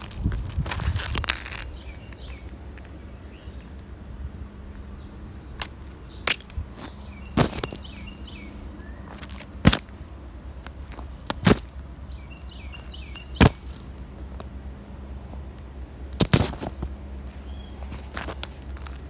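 Footsteps crunching on a crust of ice over snow: sharp, loud crunches every second or two, with small birds chirping in the background.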